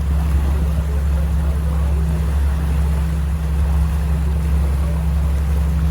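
A tour boat's engine running steadily under way, a constant low hum with water and wind noise over it.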